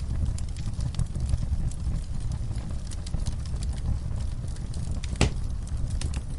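Wood fire burning in a fireplace: a steady low rumble of flames under frequent small crackles, with one louder pop about five seconds in.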